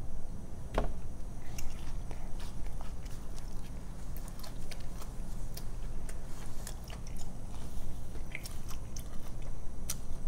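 A person biting into and chewing a fried fish sandwich on a soft bun: a bite a little under a second in, then a run of wet mouth clicks and smacks as they chew.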